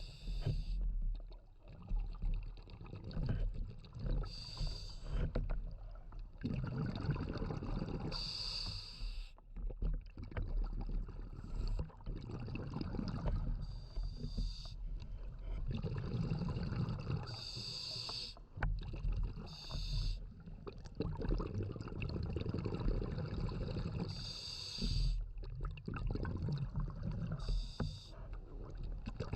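Scuba diver breathing through a regulator underwater: a low rushing sound, broken every four to six seconds by a short burst of exhaled bubbles.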